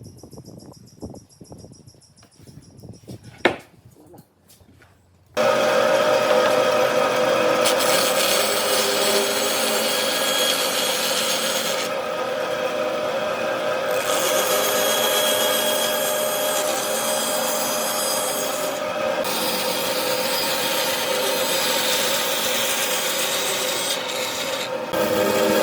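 A woodworking power tool cuts or sands wood. It starts suddenly about five seconds in and then runs steadily as a loud rasping noise over a steady hum. Before it starts there are a few quiet knocks and one sharper knock.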